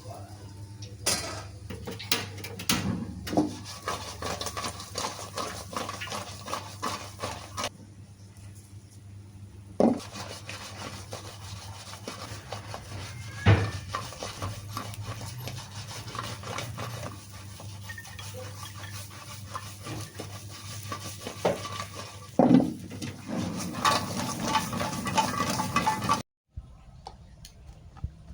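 A metal utensil clattering and scraping in a pan as food is stirred and tossed, with a few louder knocks against the pan, over a steady low hum. Near the end the sound cuts off abruptly to near quiet.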